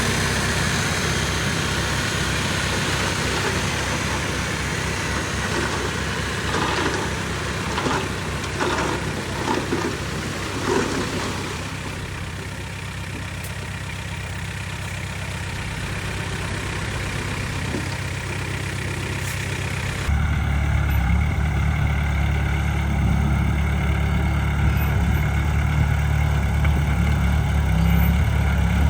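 Heavy diesel earthmoving machinery running steadily, with a few short knocks between about a quarter and a third of the way in. About two-thirds of the way through, the engine sound changes abruptly and becomes deeper and louder.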